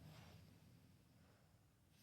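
Near silence: a pause between a sleeping dog's snores, with only a faint low noise fading away.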